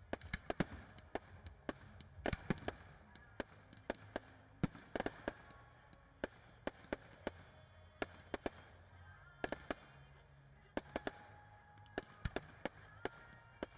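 Fireworks going off: sharp bangs and cracks at irregular intervals, sometimes several in quick succession.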